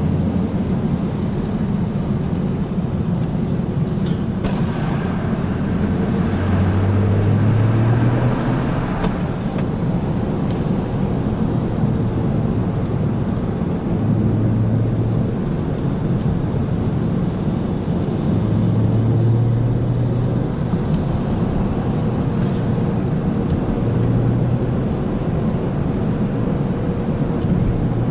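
BMW 335i coupe's turbocharged N55 inline-six engine running on the move, with steady road noise. The low engine drone swells four times as the car is pulled harder.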